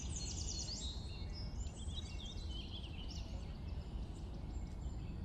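Small birds chirping over and over, over a steady low background rumble.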